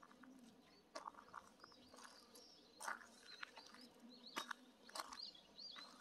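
Faint chirping of small birds: short, high, curved calls repeated many times through the second half, with a few soft clicks among them.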